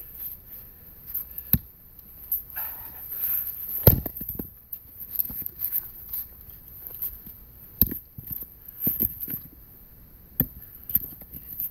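Axe chopping firewood: about four sharp strikes a few seconds apart, the loudest about four seconds in, with smaller knocks and scuffling between the blows.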